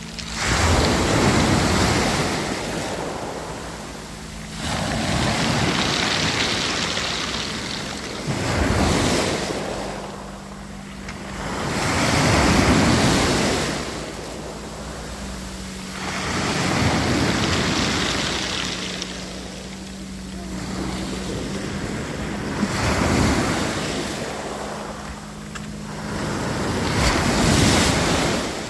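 Black Sea waves breaking on the beach, each surge building and falling away every three to five seconds, over a faint steady low hum.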